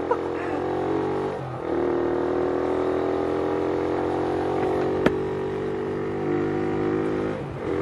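Motorcycle engine running steadily under way, its note dipping briefly about a second and a half in and again near the end, with one sharp click about five seconds in.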